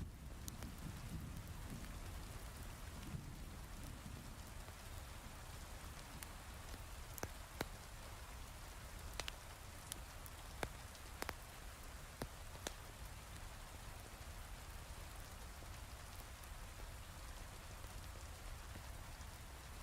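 Steady heavy rain, with a low rumble underneath and a handful of sharp, isolated pops from a crackling wood fire scattered through the middle.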